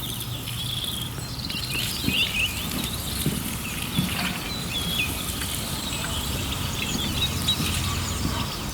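Birds chirping, with short quick calls throughout over a steady low rumble.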